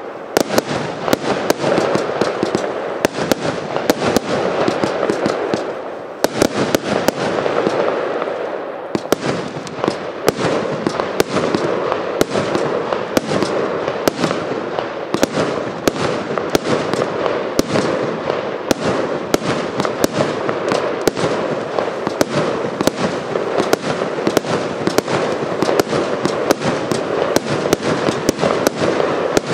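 Evolution Fireworks Inception firework barrage firing continuously, with many sharp shots and bangs a second over a steady hiss. The firing eases briefly about six seconds in, then picks up again.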